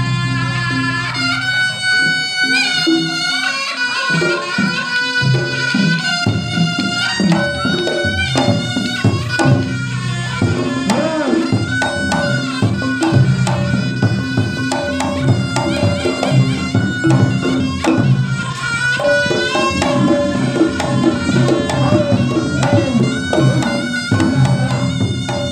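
Reog gamelan music: the slompret, a shrill reed horn, plays a wavering, ornamented melody over kendang drums and gongs.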